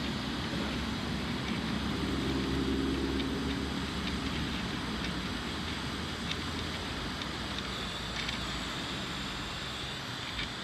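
Heat gun blowing steadily, shrinking heat-shrink tubing over a crimped wire connector, with a few faint ticks.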